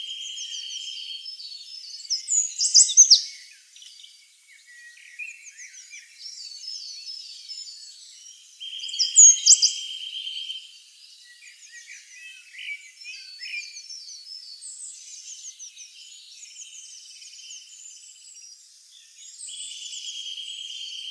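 Songbirds chirping and singing, with many short high chirps overlapping. A buzzy trill comes back about every ten seconds, and louder sweeping calls sound about three and nine seconds in.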